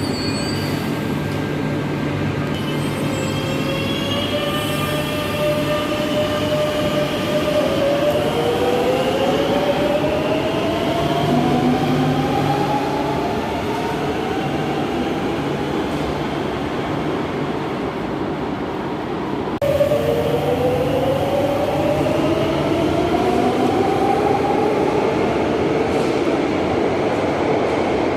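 Madrid Metro electric trains pulling away: the traction motors give a whine that rises in pitch over several seconds, over a steady rumble of wheels on rail. It happens twice, the second time after an abrupt switch to another train about two-thirds of the way through.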